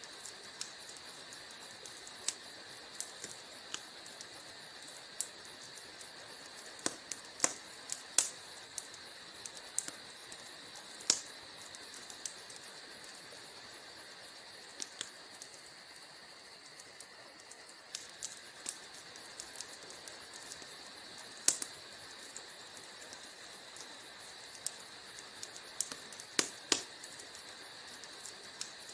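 Wood fire crackling: sharp, irregular pops and snaps over a steady soft hiss.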